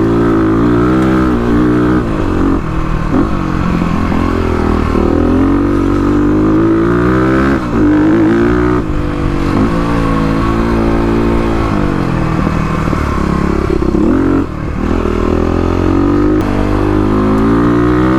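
Kawasaki KLX351's single-cylinder four-stroke engine, breathing through an aftermarket exhaust, revving up and falling back over and over as the bike is ridden hard on a dirt trail. There is a brief drop in level about three-quarters of the way through.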